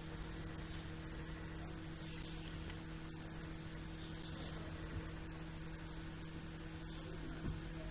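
Steady low hum made of several constant tones over a background hiss, with a faint chirp now and then high above it and a soft tap about five seconds in and another near the end.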